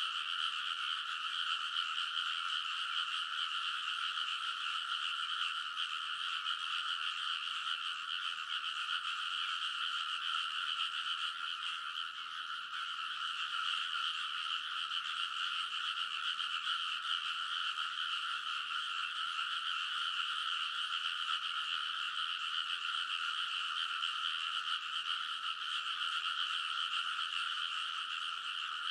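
A dense chorus of many frogs calling together in a rice paddy, forming a steady, unbroken wall of croaking.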